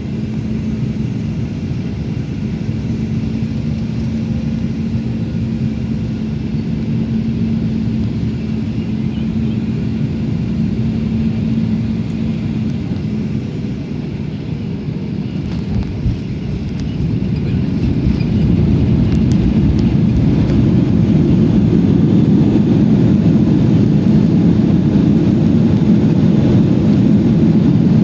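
Cabin noise inside a Boeing 737-900ER landing: a steady rush of engines and airflow with a low hum that stops about twelve seconds in, a single thump of touchdown about sixteen seconds in, then the noise grows louder as the engines go to reverse thrust.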